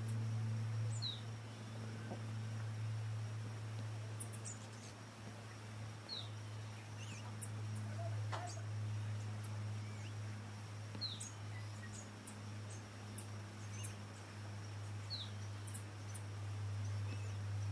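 Faint, high bird calls: a short falling chirp repeated every four to five seconds, with scattered thin, very high chirps between, over a steady low hum that is louder than the birds.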